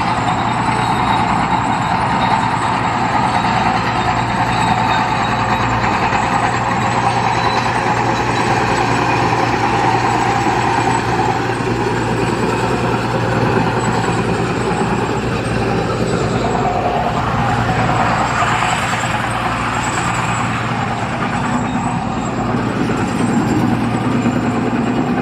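Heavy construction machinery: a large diesel engine running steadily under a constant mechanical din, with a brief swell of higher-pitched noise about three-quarters of the way through.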